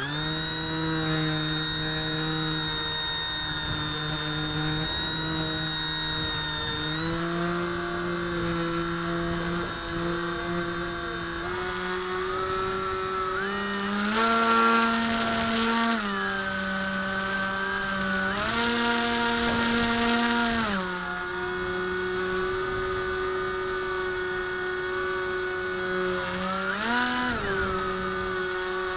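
Motor and propeller of a 30-inch BSD radio-controlled model airplane running steadily in flight. It is throttled up sharply twice for a few seconds, and blipped briefly once near the end.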